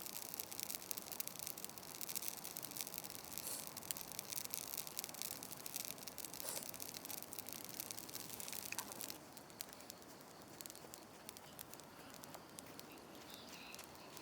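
Wood campfire crackling, a dense run of fine pops and snaps that thins out and quietens about nine seconds in.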